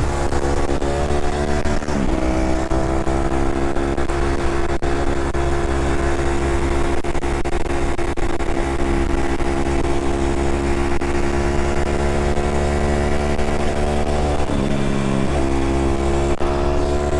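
Dirt bike engine running steadily under way, its pitch briefly dropping and climbing back about two seconds in and again near the end.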